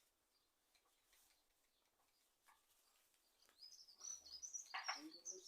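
Near silence, then a bird chirping a quick run of high notes in the last two seconds.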